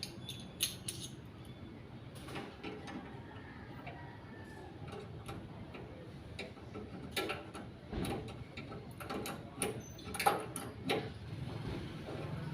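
Scattered, irregular clicks and knocks of hand work on a stock pot burner, with louder strikes near the middle and toward the end.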